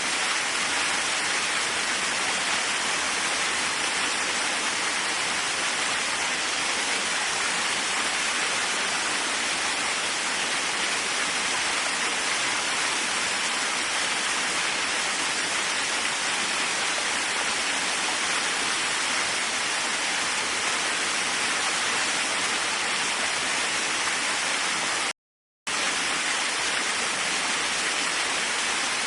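Waterfall rushing steadily. The sound cuts out completely for about half a second near the end, then resumes unchanged.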